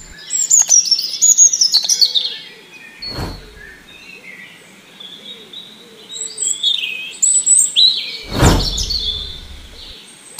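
Birds chirping and twittering in quick, falling calls, busiest at the start and again in the second half. Two sudden loud bursts cut across them, one about three seconds in and a louder one a little past eight seconds.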